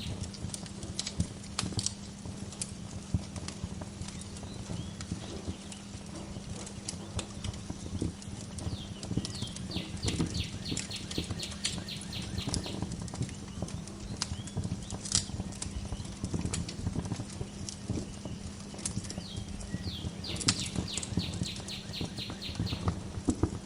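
Wood fire crackling, with frequent sharp pops over a low steady rumble. A songbird sings a rapid, high trill twice, once about ten seconds in and again near the end.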